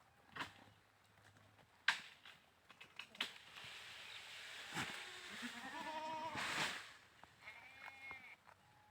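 Goats bleating: wavering calls about two thirds of the way in, and another shorter, higher call near the end, over a rustling noise and several sharp knocks in the first half.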